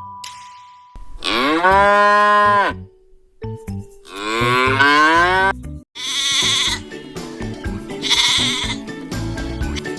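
Two long cow moos, each rising into a held note and falling away at the end. From about six seconds in, music with short repeated animal calls.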